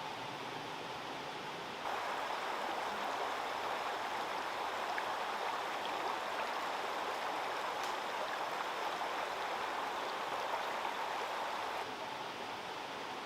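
Steady rush of running water, which steps up abruptly about two seconds in and drops back near the end.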